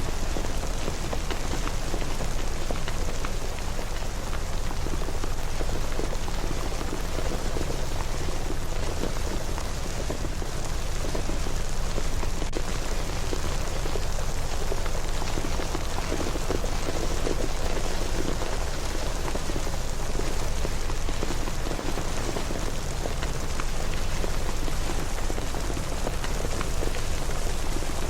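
Steady rain pattering on a surface, a dense hiss of drops with a low rumble beneath it.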